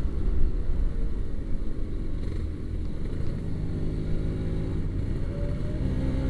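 Kawasaki Ninja RR 150 two-stroke single with a racing exhaust, heard on the move under heavy wind rumble. Its note climbs steadily in the second half as the revs rise. The rider feels the engine running as if flooded, which he puts down to a wrong setting and an overdue service.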